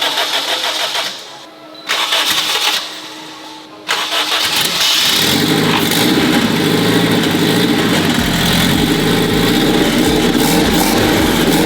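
Engine cranked by its starter in short spells: two tries that don't catch, then a third that fires about five seconds in. It keeps running loudly and steadily after that.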